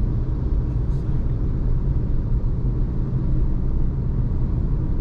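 Car driving at steady speed, heard from inside the cabin: a constant low rumble of engine and road noise.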